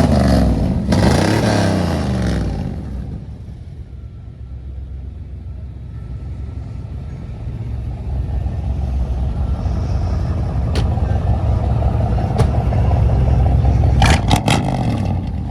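Truck engine revving up and accelerating, its pitch rising and falling over the first two seconds before easing off. It then builds steadily again to its loudest near the end.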